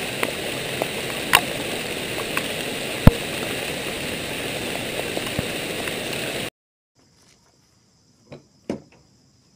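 Heavy rain falling steadily, with occasional sharp drops landing close by. It cuts off abruptly about six and a half seconds in, followed by two faint knocks.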